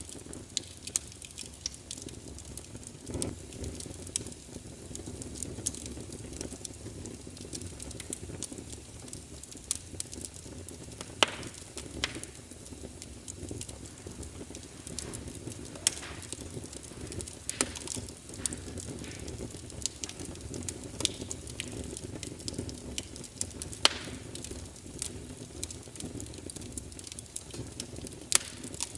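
Fire burning in a fireplace: a steady low rush of flames with frequent irregular crackles and pops, a few of them sharper and louder than the rest.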